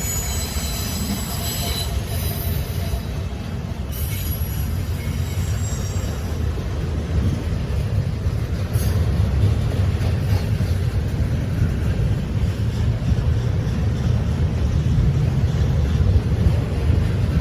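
Train rolling past with a steady low rumble that slowly grows louder; its wheels squeal on the rails for the first few seconds.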